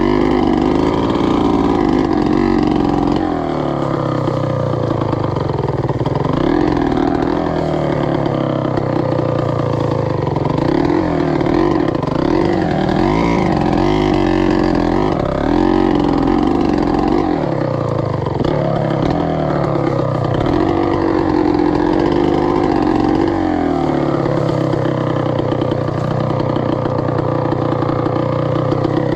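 2003 Gas Gas EC300's 300cc single-cylinder two-stroke engine being ridden off-road. Its note climbs and drops again and again as the throttle is worked, and holds steadier near the start and over the last few seconds.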